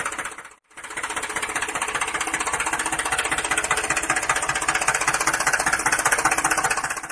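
Small electric motor of a homemade model machine running with a fast, even rattle. It cuts out briefly about half a second in, then starts again.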